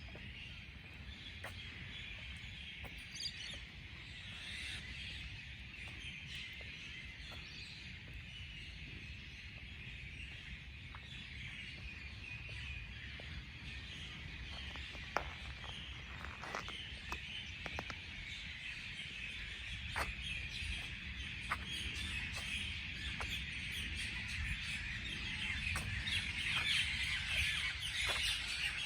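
Morning chorus of many small birds chirping and calling over one another, with a few sharper short calls in the middle and the chorus getting fuller and louder toward the end. A low steady rumble runs underneath.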